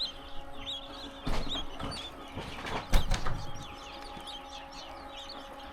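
Newly hatched quail chicks peeping: many short, high chirps overlapping throughout. Two sharp knocks, about a second and about three seconds in, over a steady hum.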